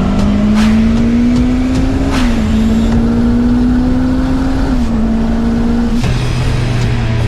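A car engine pulling through the gears: its note climbs slowly and drops twice, at about two seconds and again about five seconds in, like upshifts under acceleration. Near the end it changes to a lower, steadier note.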